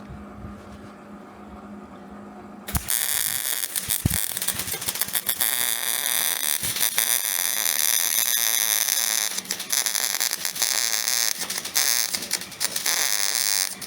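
Wire-feed welder: a steady hum, then about three seconds in the arc strikes and runs continuously with a dense crackle as a weld bead is laid.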